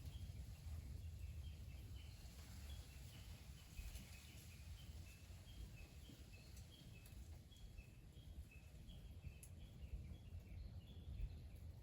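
Faint outdoor ambience: a steady run of short high chirps, about two or three a second, alternating between two close pitches, over a low rumble.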